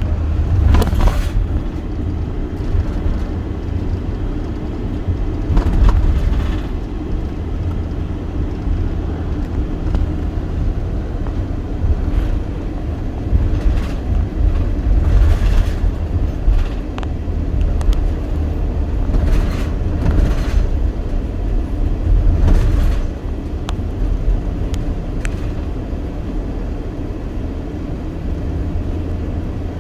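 Vehicle noise: a steady low rumble with several brief whooshes, as of traffic passing.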